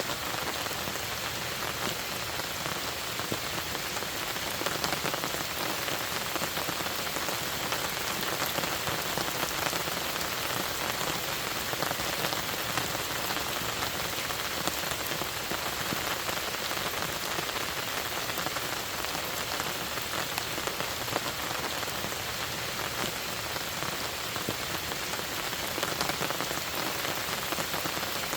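Steady rain falling on a lake, a dense even patter of many small drops.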